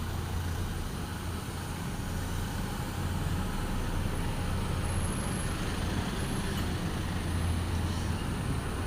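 Heavy truck engine running with a steady low drone, mixed with road traffic noise, getting slightly louder about three seconds in.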